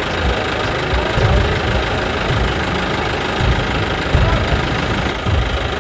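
An engine-like running sound, steady in level, with an uneven low thumping underneath.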